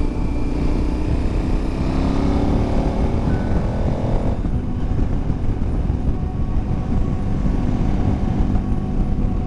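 KTM 1090 Adventure's parallel-twin engine pulling hard, its pitch rising for about four seconds, then backing off to a lower steady rumble under a rush of wind.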